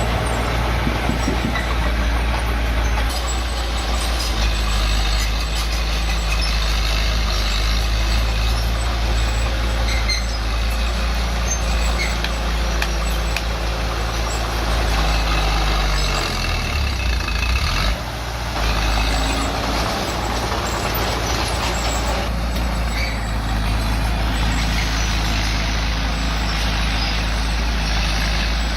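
Bulldozer's diesel engine running steadily under work. About two-thirds of the way through, the engine note drops and briefly dips in loudness, then picks back up.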